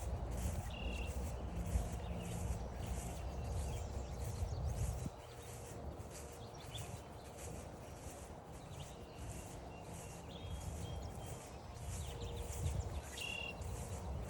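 Footsteps along a forest trail at an even walking pace, about two steps a second. Short bird chirps come about a second in and again near the end, over a low rumble.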